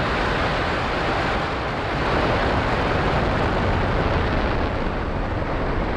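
Exhaust noise of a SpaceX Falcon rocket's Merlin first-stage engines climbing just after liftoff: a loud, steady, dense rumble that does not let up.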